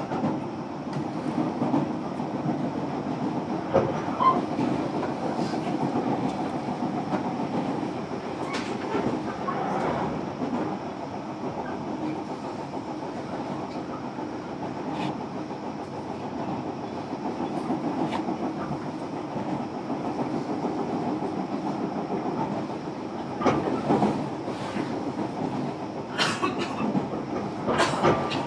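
Running sound inside a JR Kyushu 305 series electric train's motor car at speed: a steady rumble of wheels on rail, with sharp clicks from rail joints now and then and a few close together near the end.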